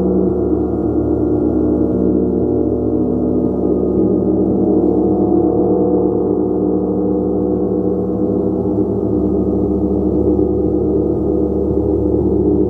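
A gong played as a continuous, sustained wash: many overlapping tones ring together at a steady loudness, all low and middle in pitch, with no single strike standing out.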